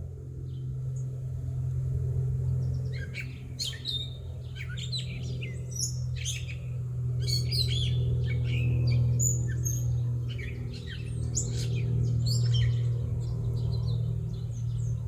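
Several songbirds chirping and calling in quick, overlapping short notes, over a steady low machine-like hum that swells and eases.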